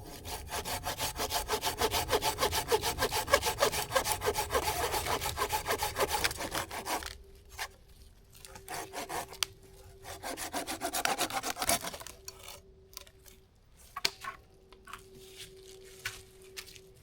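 Hand saw cutting through wood in fast, even strokes for about seven seconds, then two shorter bursts of sawing.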